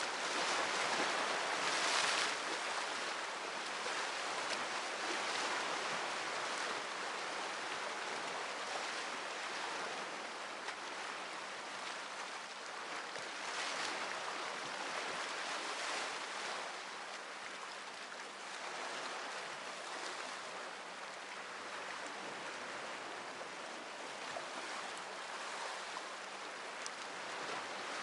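Sea waves washing onto the shore: a steady rush of surf that swells louder at the start and eases off toward the end.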